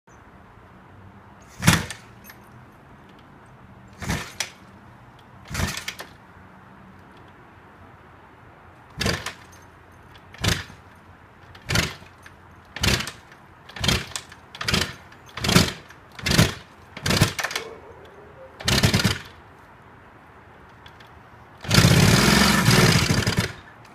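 Kawasaki H2's 750 cc two-stroke triple being kicked over for its first start after long storage: about a dozen short, irregular bursts that come quicker in the middle. Near the end it catches and runs loudly for about two seconds.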